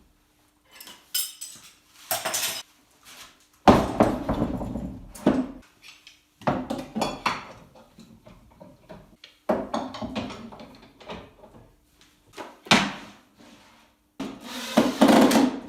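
Clanks, knocks and scraping of metal and wooden workshop parts being handled and set in place while a jig is set up on a drill press, with louder knocks about four, six and a half, nine and a half and fourteen seconds in.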